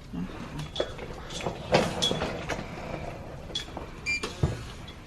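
Scattered knocks and clatter of a door and bags being handled, with short high electronic beeps about two seconds in and again past three and a half seconds, and a brief chirp just after four seconds.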